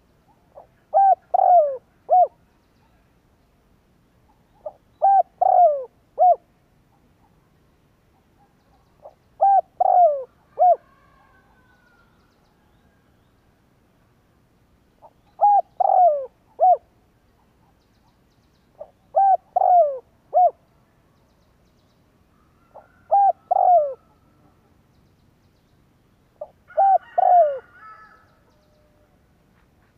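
Spotted dove cooing: a short phrase of three or four coos, the last falling in pitch, repeated seven times about every four to five seconds. Faint higher chirps of another bird come in twice.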